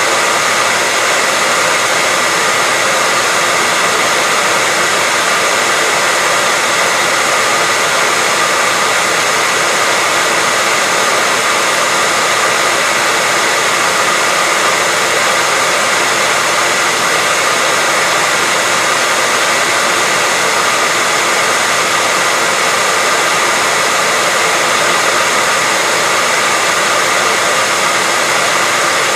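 Hair dryer running steadily, a constant hiss of blowing air with a faint steady whine from its motor, used as white noise.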